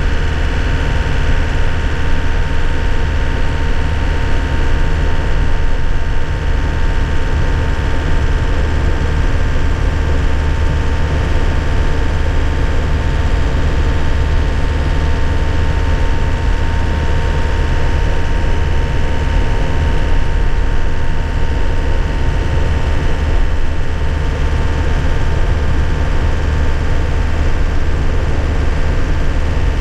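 Nissan Cabstar light truck's engine and road noise heard from inside the cab, running steadily with a strong low drone and no gear changes.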